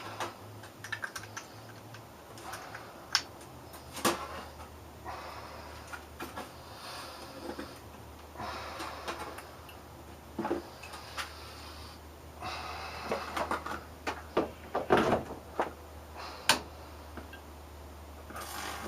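Ballasted microwave oven transformer humming under high voltage, with an electric arc crackling and sputtering in irregular bursts and sharp snaps.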